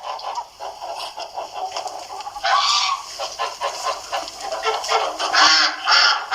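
A flock of domestic fowl calling, with many short overlapping calls and louder bursts about two and a half seconds in and again near the end.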